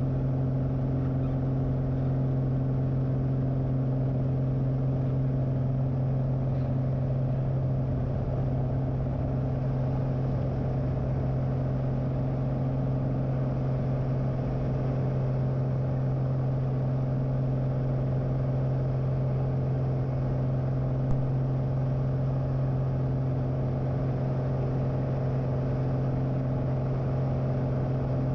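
Single piston engine and propeller of a light aircraft running at steady power in flight: an even, unbroken drone with a strong low hum.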